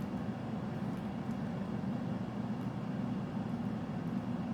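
Steady low background rumble with no change or distinct events.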